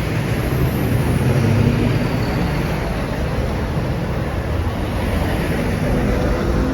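Steady road traffic noise, with the low hum of running vehicle engines.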